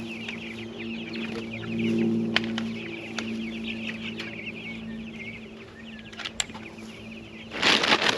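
A flock of young meat chickens peeping continuously in a dense stream of short falling chirps, over a steady low hum. A loud, noisy burst near the end is the loudest sound.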